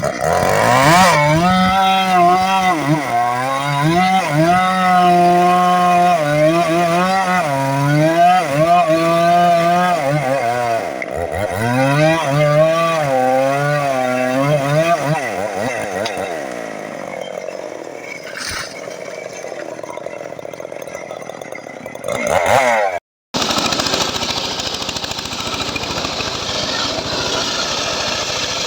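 Chainsaw engine running at high speed, its pitch swinging up and down as it bogs and picks up under load while cutting teak wood. After a short break about 23 s in it runs on with a steadier, noisier sound.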